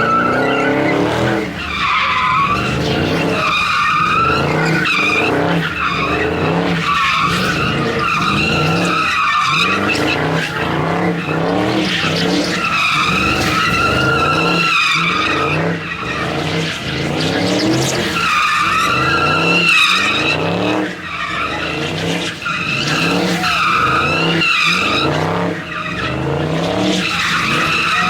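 A car sliding in circles: tires squealing with a wavering pitch, while the engine revs up and drops back over and over.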